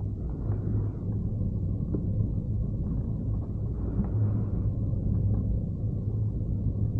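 Low, steady rumble of wind buffeting the microphone during hang-glider flight.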